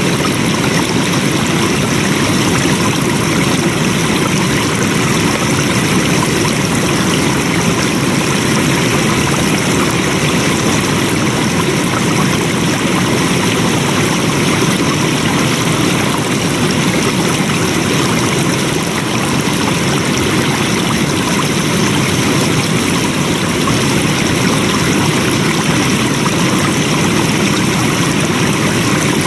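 Flowing water: a steady, unbroken rush of a stream.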